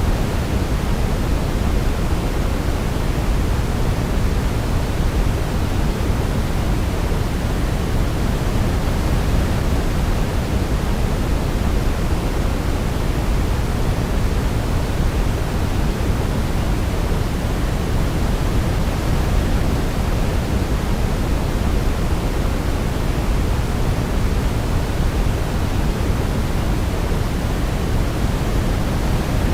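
Steady, unbroken sleep-machine noise of the kind sold as white noise, weighted toward the low end so it sounds deep and rushing rather than hissy, like pink noise. No melody can be picked out above it.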